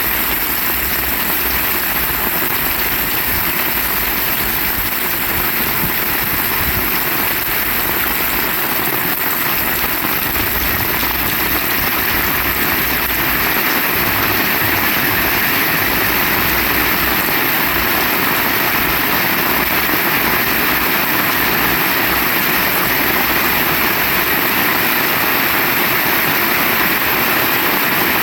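Heavy rain pouring steadily, with gusting wind buffeting the microphone as a low, uneven rumble.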